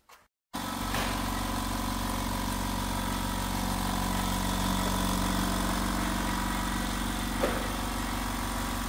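BMW 323i E46's 2.5-litre straight-six idling steadily, heard from under the car. It comes in abruptly about half a second in, with a short tick near the end.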